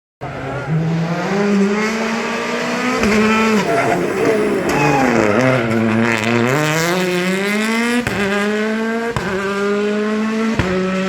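Rally car engine at full throttle. It revs down about four seconds in, as if braking into a corner, then climbs again and changes up through the gears, with sharp drops in revs at each shift near the end.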